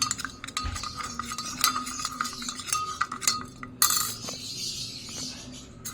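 Spoon stirring hand-feeding formula with hot water in a small jar, with many quick, irregular clinks and scrapes against the sides as the powder is mixed in.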